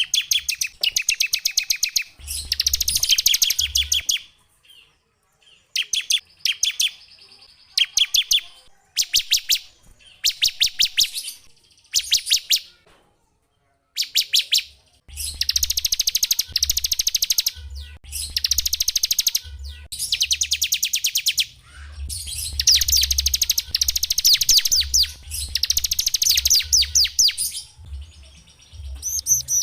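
Small songbird singing fast, high-pitched trills of rapidly repeated notes, in phrases of one to two seconds with short pauses between, with a low hum under the louder phrases.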